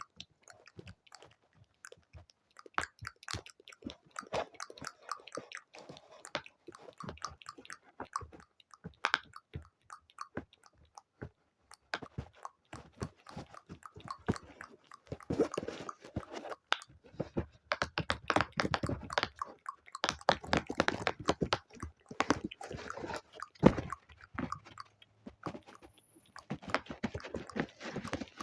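Close-miked ASMR mouth sounds: a rapid run of small wet clicks, smacks and pops, sparse at first and growing denser and louder in the second half.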